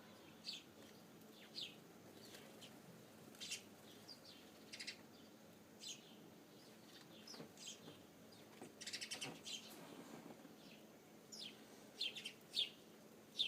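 Small birds at a feeder giving short, high chirps, faint and spaced a second or so apart, with a quick run of notes about nine seconds in.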